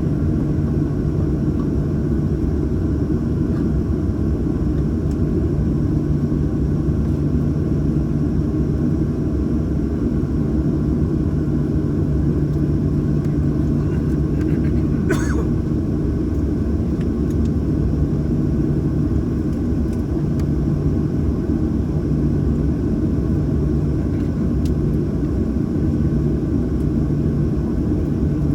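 Steady low rumble inside the cabin of a Boeing 737-800, its CFM56-7B engines running at low power while the jet taxis or holds in line for takeoff. A short sharp sound cuts in once about halfway through.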